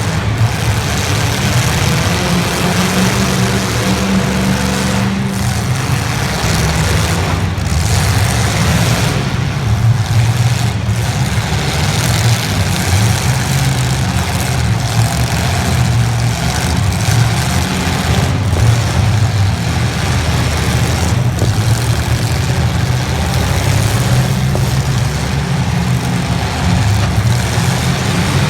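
Engines of several 1980s stock demolition derby cars running loudly together, their pitch rising and falling as they rev.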